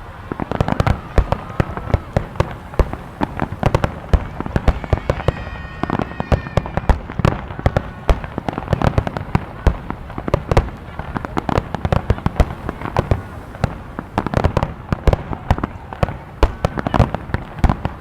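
Fireworks display: a dense, continuous barrage of shells bursting, with rapid overlapping bangs and crackles, typical of a starmine.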